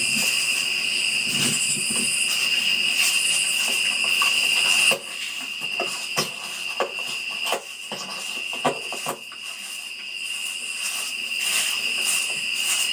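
Night insects chirring in a steady high-pitched chorus that cuts off abruptly about five seconds in and builds back near the end, with scattered light clicks and knocks while it is quieter.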